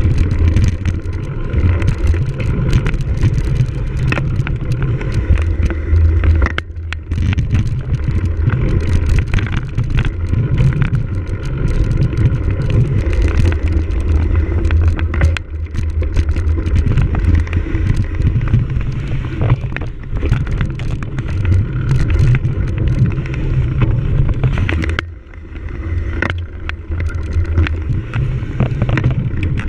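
Wind buffeting the microphone while a cyclocross bike rattles and clatters over rough race-course ground, with two brief lulls, about a quarter of the way in and near the end.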